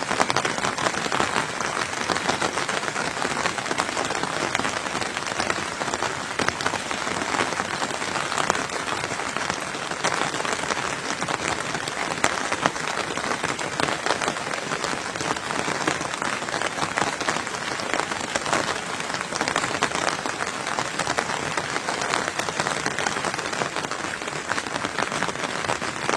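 Steady rain falling on a surface: a dense, even patter of drops without a break.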